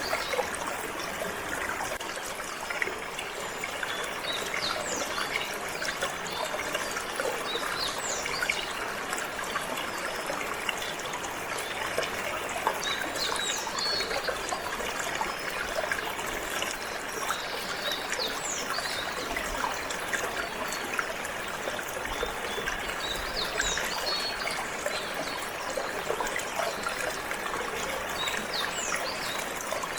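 Steady flowing, trickling water, with canaries chirping in short high bursts every few seconds.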